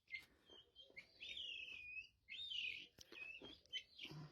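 Faint bird calls: a run of short chirps and a few longer, curving whistled calls.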